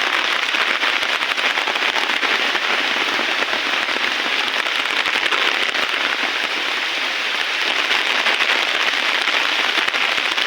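Heavy rain pouring down, a dense steady patter of raindrops with sharp close drop hits throughout.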